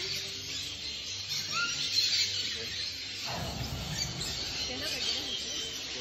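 Birds chirping in short rising calls over a steady high hiss of outdoor ambience, with a low rumble coming in about halfway through.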